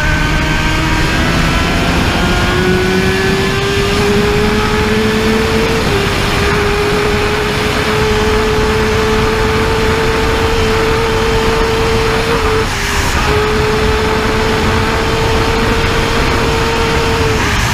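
A superbike engine pulling hard at speed, its pitch climbing slowly and dipping briefly at gear changes about six seconds in, near thirteen seconds and near the end, under a steady rush of wind noise.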